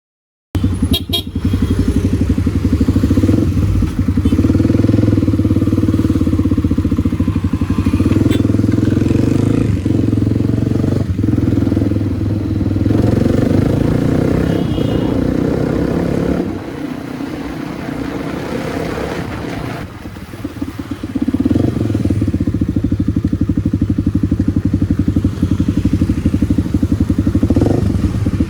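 Kawasaki D-Tracker 250's single-cylinder four-stroke engine running through an aftermarket White Brothers exhaust while riding, cutting in about half a second in. It eases off and goes quieter for a few seconds past the middle, then picks back up.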